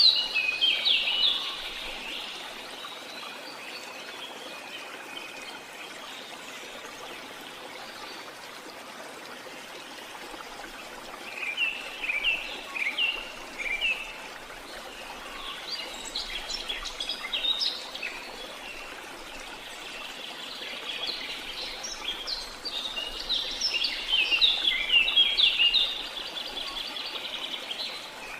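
Songbirds singing in repeated bursts of quick chirps and trills over a steady rush of running water.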